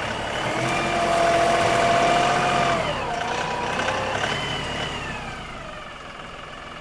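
LS XR3135 compact tractor's diesel engine working under load while digging, with a whining tone that holds steady, dips about three seconds in, picks up again briefly and then eases off.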